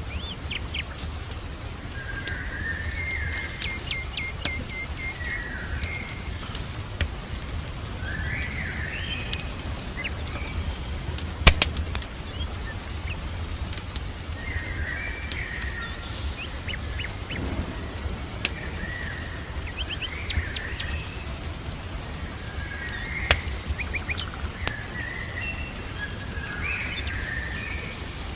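Birds chirping and calling again and again over a steady hiss of rain, with a fireplace's scattered crackles and two sharp pops, one about 11 seconds in and one about 23 seconds in.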